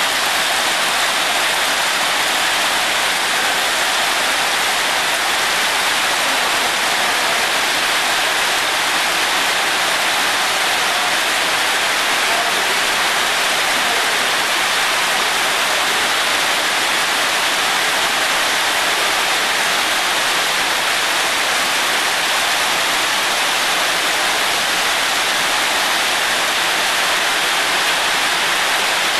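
Heavy rain pouring steadily onto a wet paved courtyard: a dense, even hiss that holds at the same level without let-up.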